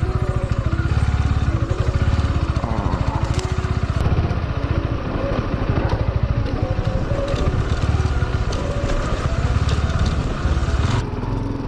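Motorcycle engine running steadily under way, with a fast, even firing pulse. About 11 seconds in the engine sound drops away.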